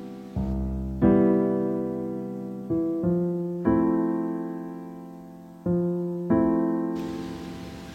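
Slow piano music: chords struck one after another, about every one to two seconds, each ringing and fading before the next.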